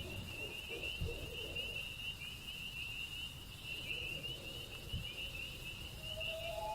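Chorus of night insects trilling steadily at a high pitch over a low rumble.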